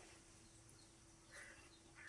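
Near silence, with a faint bird call about one and a half seconds in over a faint steady hum.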